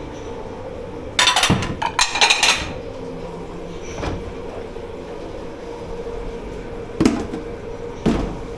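Dishes and pots clattering as they are handled at a kitchen washing-up station: two clattering bursts between about one and two and a half seconds in, then single knocks near the end, over a steady machine hum.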